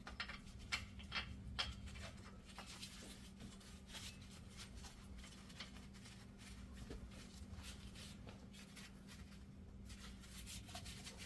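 Faint, irregular clicks and light scraping of hand work on metal parts, with several sharper ticks in the first couple of seconds, over a steady low hum.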